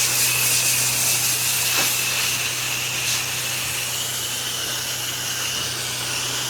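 Pressure washer wand spraying soap in a steady hiss, with a thin high tone and a steady low hum running underneath.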